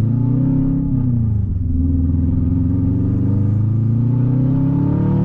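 Turbocharged Subaru flat-four engine with Brian Crower 272 cams, running loud through an open 3-inch catless downpipe with no muffler as the car drives. The revs climb, drop briefly about a second and a half in, then climb steadily again.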